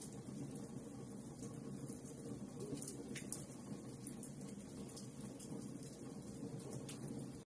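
Wood fire burning in a fireplace: small irregular crackles and snaps over a steady low background of burning.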